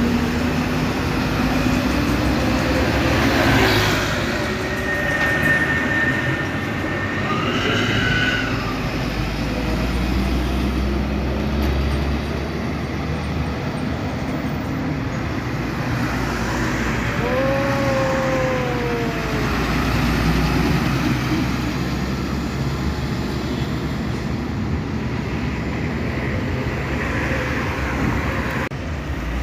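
Heavy truck running with a steady low rumble. A brief high squeal comes about five to eight seconds in, and a falling squeal about seventeen seconds in.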